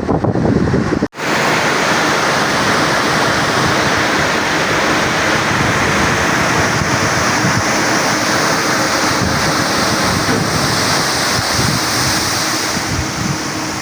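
Steady rush of water pouring from the Tarbela Dam service spillway. About a second in, lower gusty noise like wind on the microphone cuts off abruptly and the water sound takes over.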